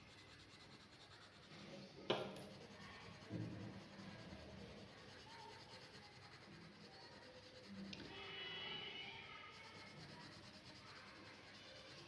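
Faint scratching of a drawing tool on paper, with a sharp click about two seconds in and a soft knock a second later.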